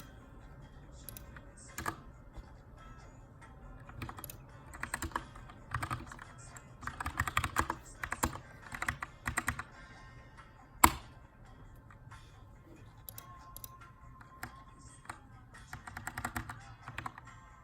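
Typing on a Keychron K2 mechanical keyboard with Brown switches in an aluminium frame: keystrokes come in bursts with short pauses, busiest in the middle and again near the end. One sharp click, louder than the keystrokes, stands out about eleven seconds in.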